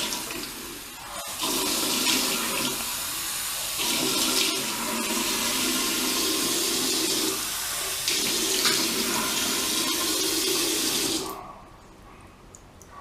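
Tap water running into a sink as a face is wetted with warm water; the sound changes a few times as the stream is interrupted, then the water is turned off about two seconds before the end.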